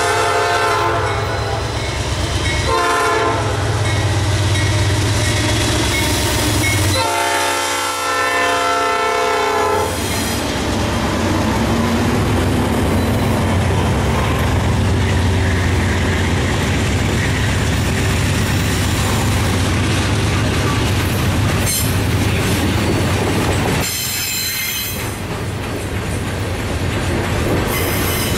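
Norfolk Southern mixed freight train with three diesel locomotives (GE Dash 8 and Dash 9 wide-cabs and an EMD SD60E) passing close by. The horn sounds a short blast about three seconds in and a long blast from about seven to ten seconds, over the deep drone of the engines working by. Then the freight cars clatter over the rail joints, with a wheel squeal about twenty-four seconds in and again near the end.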